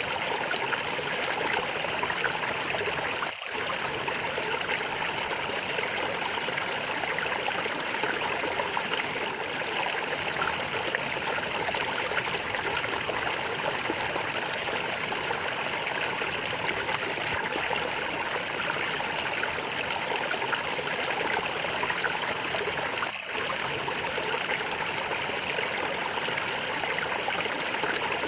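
Water flowing and gurgling steadily, like a small stream over rocks, with two very brief dips in level: one about three seconds in and one a few seconds before the end.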